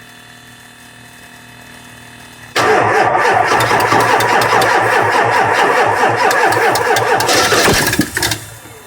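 A 7.3-litre diesel V8 cranking on its starter, with a steady rhythmic pulse for about five seconds from two and a half seconds in, then stopping without the engine catching. It is a no-start.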